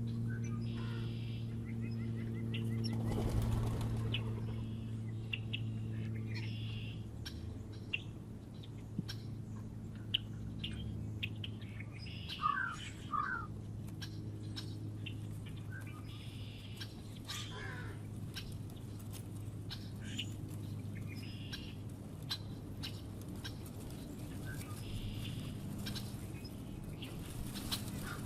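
Small birds at a feeder: wings fluttering, with short chirps and scattered small clicks, over a steady low hum. There is a loud wing flutter about three seconds in, and a quick run of chirps near the middle.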